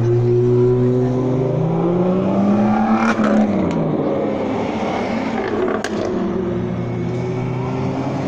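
Sports car engines running at low revs. One revs up and pulls away about three seconds in, with two sharp cracks, the first near that point and the second a few seconds later, before steady engine tones return near the end.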